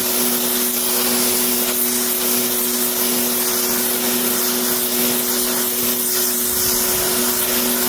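Electric pressure washer running and spraying water onto car upholstery and carpet: a steady motor hum under a constant hiss of spray.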